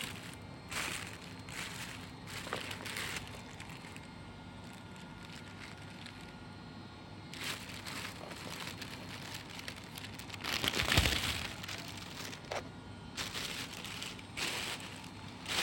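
Plastic takeaway packaging rustling and crinkling in a series of short bursts as it is handled, with a louder burst and a bump about eleven seconds in.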